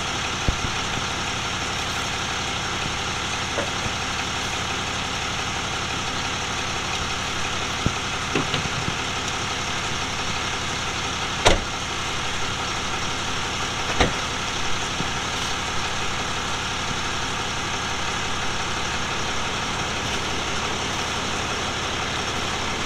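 Vehicle engine idling steadily, with two sharp knocks about eleven and a half and fourteen seconds in.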